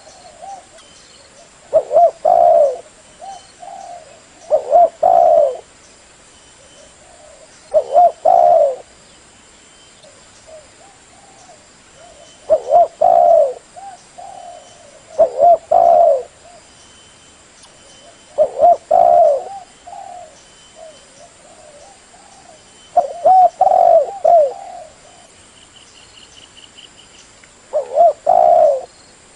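Spotted dove (tekukur) cooing over and over, a loud phrase of a few notes every three to five seconds, with softer coos between.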